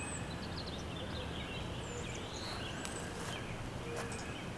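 Outdoor ambience: a steady low hiss and hum, with a few faint, short bird chirps scattered through it.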